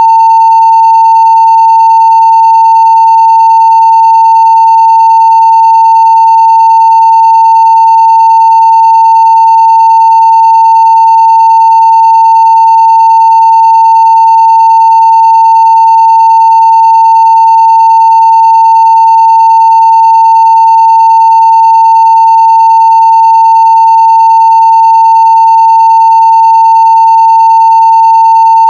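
Steady 900 Hz sine-wave test tone at full scale (0 dB), one unbroken pitch.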